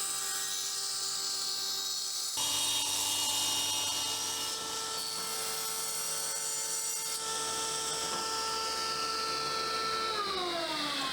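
Electric power tool motor running at a steady high speed with a high whine, then switched off about ten seconds in, its pitch falling as it winds down.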